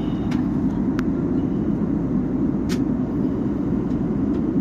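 Steady drone inside a jet airliner's passenger cabin in flight, the engine and air noise, with a few faint clicks.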